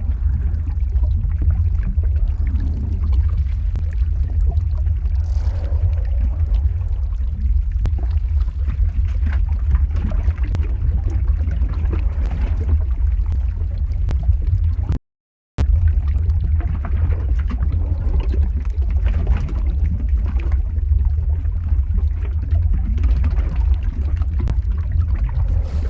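Lava-flow ambience sound effect: a steady deep rumble with faint crackling over it. It cuts to silence for about half a second just past the middle, then carries on unchanged.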